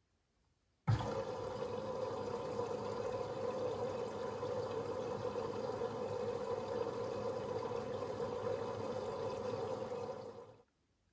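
Beko washing machine's water inlet valve opening and filling the drum through the detergent drawer: a steady rush of water that starts suddenly about a second in and cuts off abruptly near the end.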